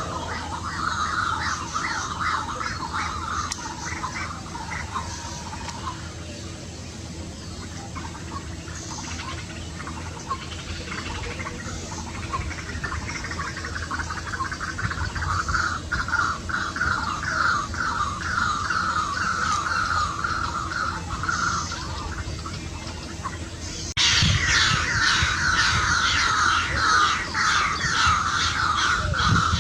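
White-breasted waterhen (dahuk) calling in long runs of fast repeated notes. The calls thin out for a while, then grow louder again, and about 24 s in they jump abruptly in loudness.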